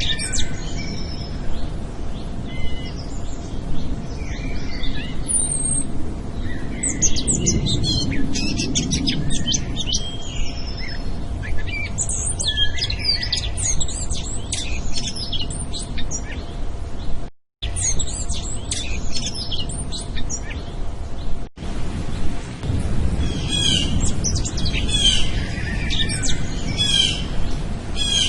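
Many small birds chirping and trilling in quick overlapping calls, over a steady low rumble. The sound cuts out completely for a moment twice.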